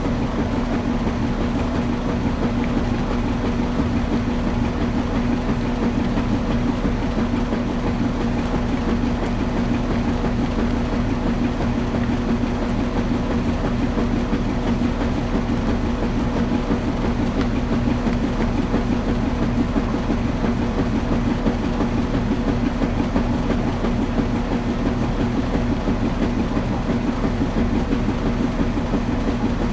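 Washing machine running steadily: a constant hum over an even mechanical churning noise.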